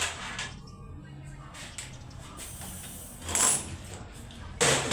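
Metal clinks and scrapes of a wrench working a flywheel puller on a Honda Pop 100's flywheel. Two louder metallic hits come about three and a half and about four and a half seconds in.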